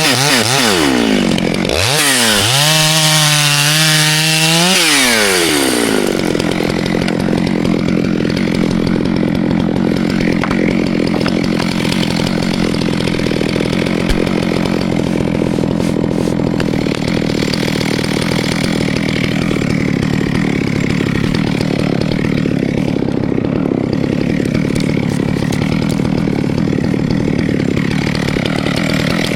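Two-stroke chainsaw revving up and dropping back twice, then running on at a steady, lower pitch.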